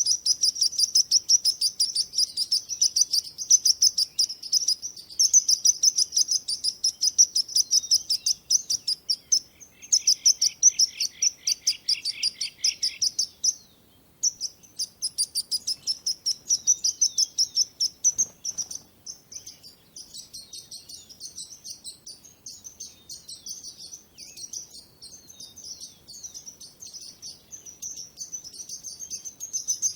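Small birds chirping continuously: rapid, high-pitched chirps several times a second. A second, lower-pitched run of chirps joins about a third of the way in, there is a brief break about halfway, and the chirping grows softer in the later part.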